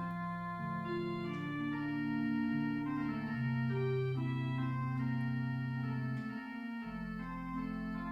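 Organ music: slow, sustained chords that change every second or so over a held bass note, which drops out briefly about six and a half seconds in.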